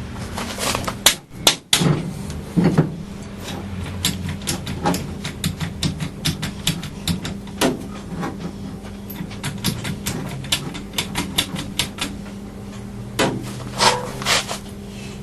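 Irregular clicks and knocks of hand tools on metal, with short quick runs of taps, from working the engine into place on its mountings; a steady low hum sits underneath.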